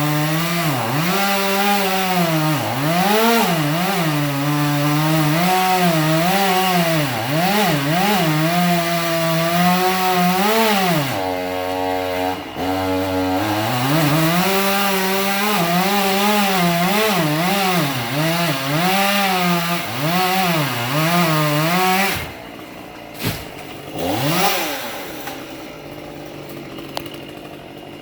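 A small petrol engine revving up and down repeatedly, its pitch constantly rising and falling. It drops to a low idle for a couple of seconds midway, then revs again. Near the end it falls quiet except for one short final rev.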